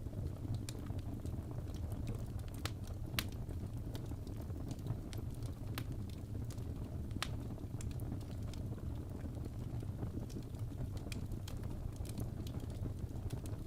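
Crackling fireplace: a steady low rumble of burning with irregular sharp pops and crackles.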